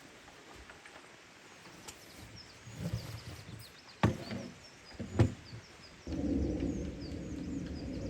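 Small birds chirping in a forest, with two sharp knocks about four and five seconds in. A steady low rumbling noise starts suddenly about six seconds in.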